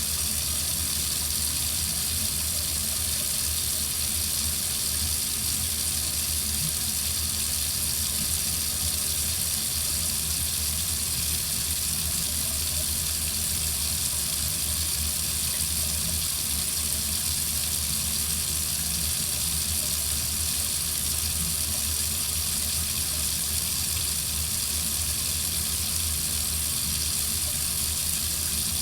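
Water running steadily from a faucet: an even, unchanging hiss with a low rumble underneath.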